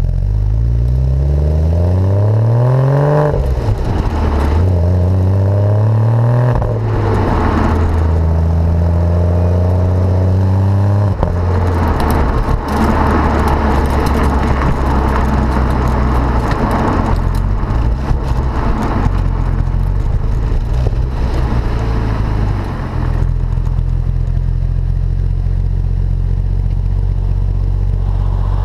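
Porsche Boxster with a performance sports exhaust accelerating, the engine note climbing in pitch and dropping at gear changes about three and six and a half seconds in. It then runs at a steadier pitch, rougher and noisier through the middle, and settles into a steady drone near the end.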